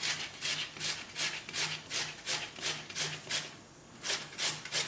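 Raw peeled potato being grated on the coarse side of a stand grater: rhythmic rasping strokes, about three a second, with a short pause about three and a half seconds in.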